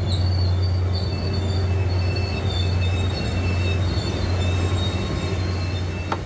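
Mugunghwa-ho passenger train moving slowly past the platform, a steady low hum and rumble with a few thin high-pitched squeals coming and going over it.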